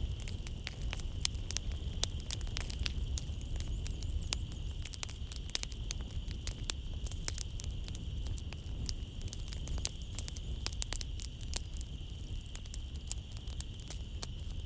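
Wood fire crackling in a fireplace: a dense, irregular run of sharp pops and snaps over a low rumble of flames, with a steady high-pitched tone in the background.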